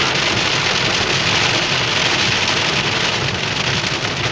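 Heavy rain pouring on a moving car, heard from inside the cabin: a loud, steady, dense hiss with a low road rumble beneath it.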